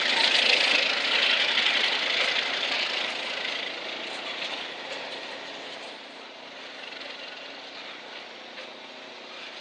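Ontario Southland Railway freight train's tank cars rolling away along the track, wheels running on the rails with a few faint clicks. The sound fades steadily as the last car recedes.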